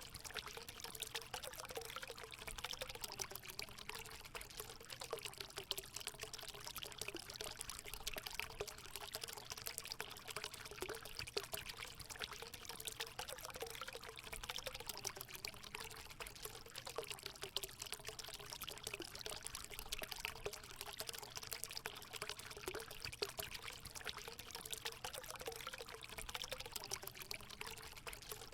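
Natural water pouring and trickling steadily into a hot spring pool, a continuous splashing with a gurgling, wavering undertone.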